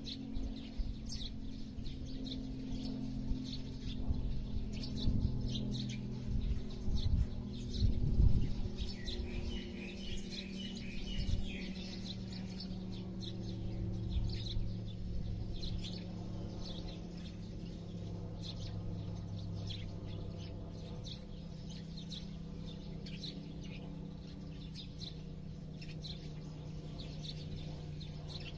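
Small birds chirping, short high calls repeated every second or so, with a quick trill about ten seconds in. A steady low hum lies beneath, with some louder low rumbling in the first third.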